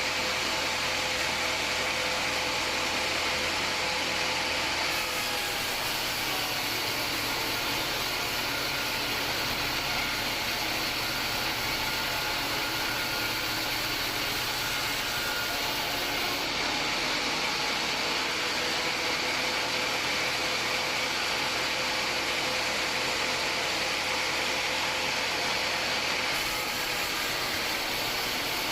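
Homemade band sawmill running steadily while sawing an acacia log: a continuous mechanical whine over the noise of the blade in the wood.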